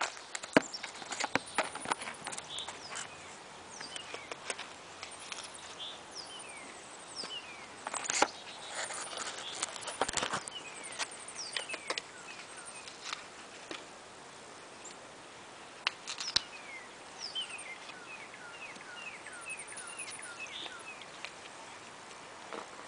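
Birds chirping in short falling notes, with a quick run of about ten chirps about three-quarters of the way through. Scattered soft clicks and knocks come in between, the loudest about a third of the way in and again past the middle.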